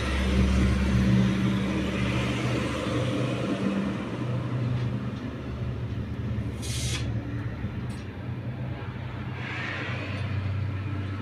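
Mahindra Bolero Power Plus diesel engine idling steadily, heard from inside the cabin. A short hiss comes about two-thirds of the way through.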